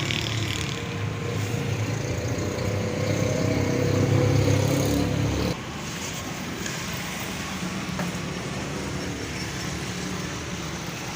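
Small single-cylinder motorcycle petrol engine running. It grows louder over the first five seconds, then drops suddenly to a lower, steady running sound.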